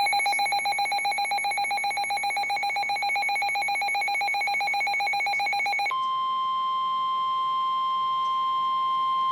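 Weather radio alert: a rapidly pulsing, bell-like electronic alarm that switches about six seconds in to a single steady tone near 1 kHz, the NOAA Weather Radio 1050 Hz warning alarm tone that signals a warning is about to be read.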